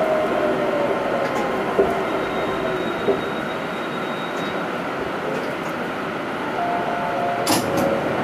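Astram Line 7000 series rubber-tyred automated guideway train running, heard from inside the car: a steady running rumble with a whine that falls in pitch over the first two seconds, and a few short knocks, the loudest near the end.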